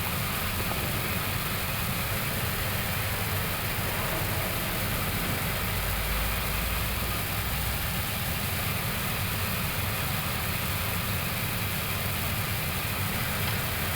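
Steady flight-deck noise of an Airbus A321neo with its engines idling after start: an even ventilation hiss over a low engine rumble, swelling slightly in the low end midway.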